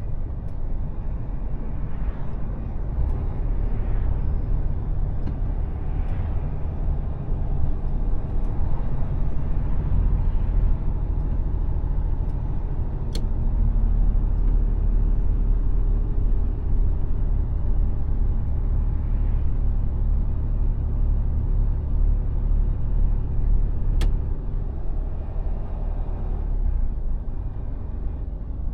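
Mercedes Actros truck's diesel engine and tyres making a steady low rumble while driving. Two single sharp clicks come through, about halfway through and again near the end.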